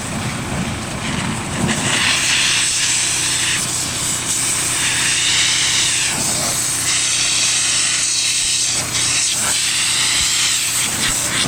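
Pressure-washer water jet hissing against a tractor in several spurts of a second or two, over the steady sound of an engine running.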